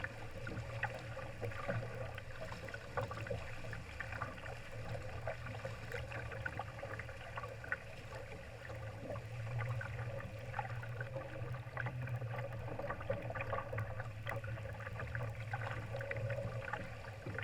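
Water splashing and gurgling against the hull of a Laser sailing dinghy under way, a busy irregular patter of small splashes over a steady low rumble.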